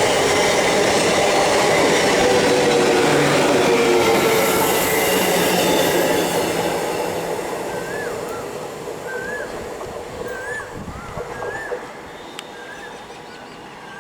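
Indian Railways EMU local train running past, loud wheel-on-rail noise with a hum, fading steadily as it moves away over the second half. As it dies down, a bird chirps repeatedly with short rising-and-falling calls.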